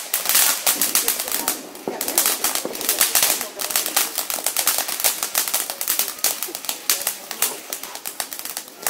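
Ground fountain fireworks spraying sparks, giving off a dense, rapid crackle mixed with hiss.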